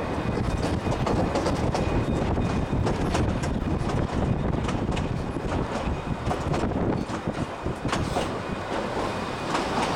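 Narrow-gauge Durango & Silverton passenger train rolling slowly, heard from an open-sided car: a steady rumble of wheels on rail with irregular clicks.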